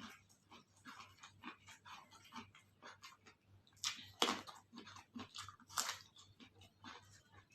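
A person chewing and crunching crisp food close to the microphone, with wet mouth clicks between bites. There are louder crunches about four seconds in and again near six seconds.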